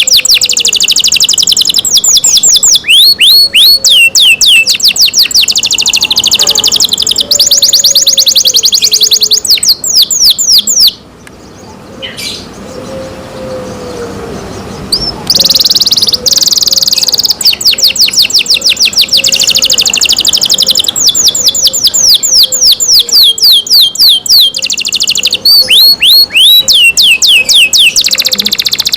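Domestic canary singing loudly in long, fast trills of rapidly repeated high notes, with a pause of a few seconds about eleven seconds in before the song starts again.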